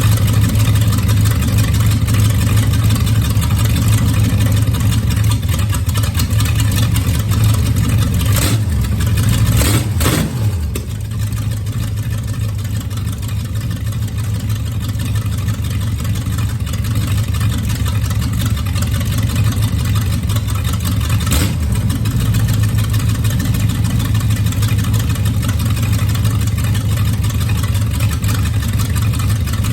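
V8 engine of a rat trike idling steadily on fresh plugs and wires, its high idle turned down. About ten seconds in, the engine note drops briefly in pitch and loudness, then settles back.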